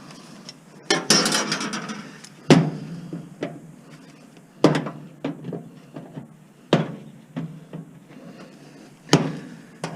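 Hammer blows on appliance metal: five sharp strikes spaced irregularly, a couple of seconds apart, with a brief metallic rattle after the first.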